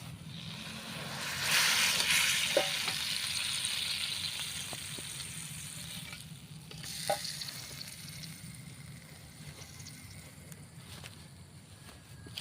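Sparrow meat frying in hot oil, the sizzle swelling sharply about a second and a half in and then slowly dying down. Two short clinks come partway through.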